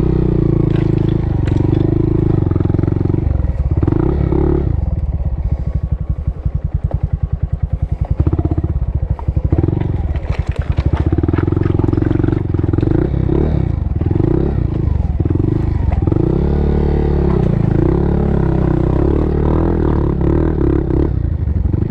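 Small single-cylinder motorcycle engine running under a rider, its revs rising and falling with throttle and gear changes. Around the middle it settles to a low, evenly pulsing idle for several seconds before pulling away again.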